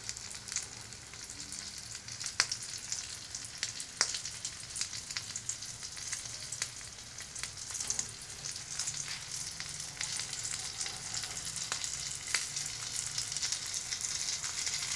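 Breaded salmon-and-avocado sushi roll frying in hot oil in a pan: steady sizzling and crackling with scattered sharp pops, the sizzle growing a little louder toward the end.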